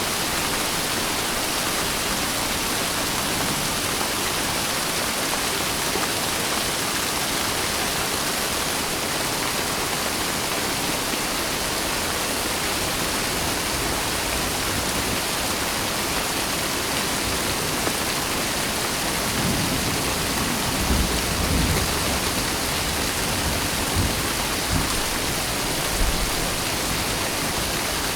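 Steady rain, an even hiss of falling water. In the second half, a few short, low rumbles of thunder rise under it.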